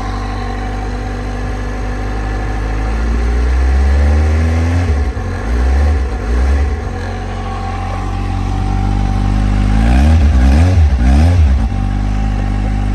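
2010 Kawasaki Z750's inline-four engine on its stock exhaust idling and being revved: a slow rise about three seconds in, a few quick throttle blips around the middle and again near the end, each time settling back to a steady idle.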